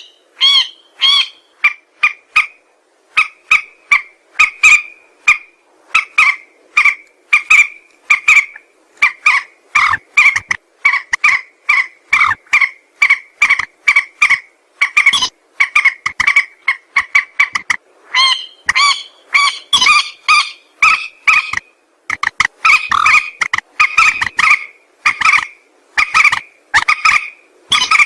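Call of the mandar sawah, a paddy-field rail: short, pitched notes repeated rapidly and without pause, about two to three a second.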